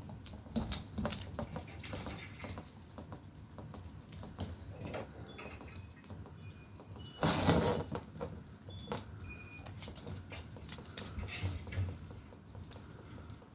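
A lively puppy moving and playing: scattered clicking and scratching taps, a few brief high squeaks, and one louder scuffling burst a little past halfway.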